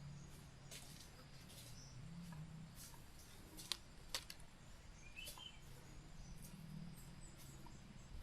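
Quiet forest ambience: scattered faint light ticks, a brief high chirp about five seconds in and a low steady hum underneath.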